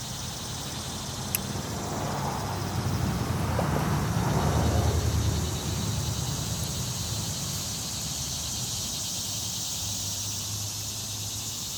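Steady outdoor insect chorus of crickets, with a car passing by that swells and fades, loudest about four to five seconds in.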